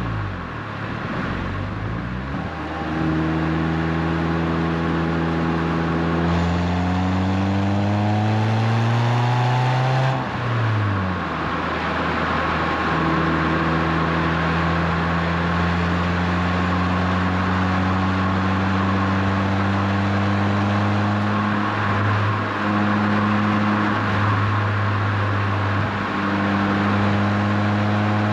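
Renault Twingo RS Gordini's 1.6-litre four-cylinder engine through an Inoxcar 80 mm stainless-steel aftermarket exhaust. It pulls up through a gear with the pitch rising steadily; the revs drop at an upshift about ten seconds in, and it then cruises at steady revs with two brief dips near the end.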